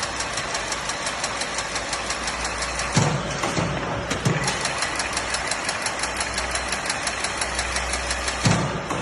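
Chain-link mesh making machine running with a fast, even clicking of several clicks a second, and a few heavier clunks about three to four seconds in and again near the end.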